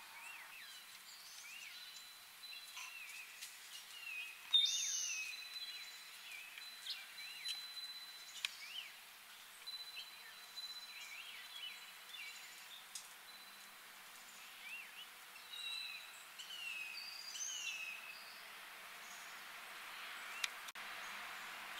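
Songbirds chirping and calling over a faint outdoor hiss, with one sharp, louder call about four and a half seconds in. A thin, steady high tone runs under the calls through the first half.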